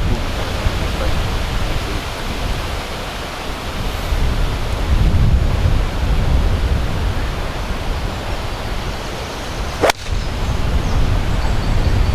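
Strong wind buffeting the microphone outdoors: a loud, gusting rumble that swells and eases. A single sharp click about ten seconds in.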